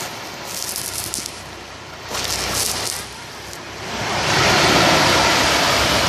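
Sea surf washing onto a beach, a steady rush of water with a wave swelling up about two seconds in and a bigger one building from about four seconds in.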